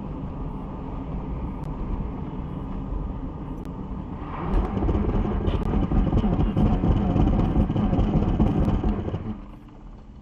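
Vehicle driving noise: a steady rumble of engine and tyres that gets louder about four seconds in and drops off suddenly near the end.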